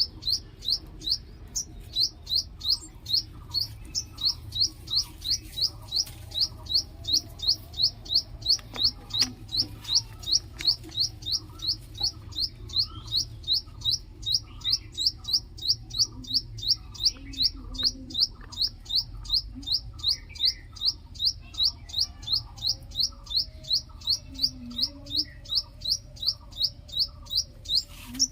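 A small songbird repeats a single high, sharp chirp about three times a second, steady and unbroken. Fainter, lower chirps come from other birds beneath it.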